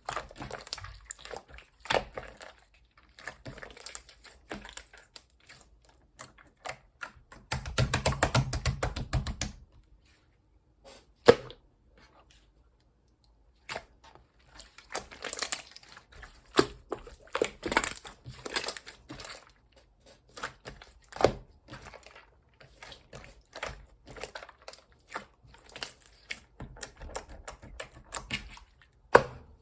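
Soft yellow slime being squeezed, pressed and stretched by hand, giving irregular sticky clicks, pops and crackles. There is a denser burst of crackling about eight seconds in and one sharp snap a little after.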